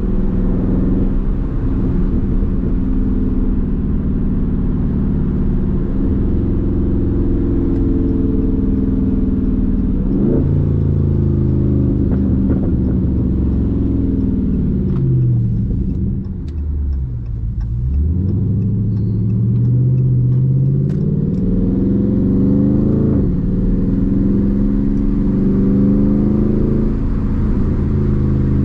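Dodge Charger Daytona 392's 6.4-litre HEMI V8 on the move: the engine note falls as the car slows about halfway through, drops lowest for a moment, then climbs again as it accelerates.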